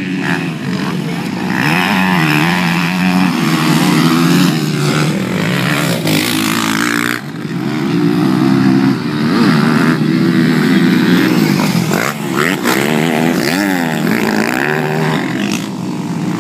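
Motocross dirt bike engines revving up and down as the bikes ride the track, the pitch rising and falling over and over, with more than one engine at times overlapping.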